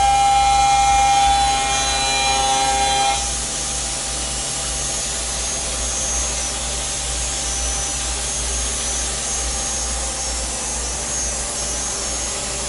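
Lathe machining a metal round bar: the cut gives a steady, pitched ringing that stops about three seconds in, and the machine keeps running with a steady hum and hiss.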